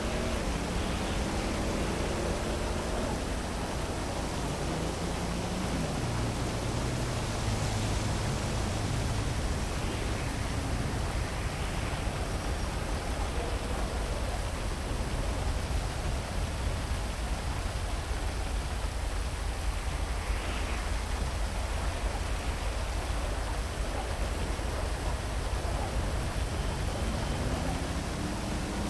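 Heavy rain falling steadily over city traffic, with a vehicle engine note sliding in pitch as cars pass early on and again near the end.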